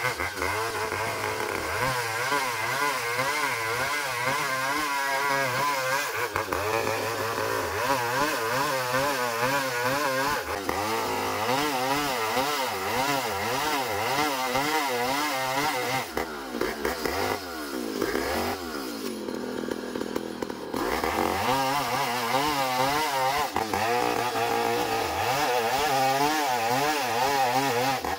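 Two-stroke chainsaw cutting through a long ulin (Bornean ironwood) log, its engine pitch wavering as it bogs and recovers under load. A little past halfway the revs drop off for a few seconds, then it climbs back to full throttle and keeps cutting.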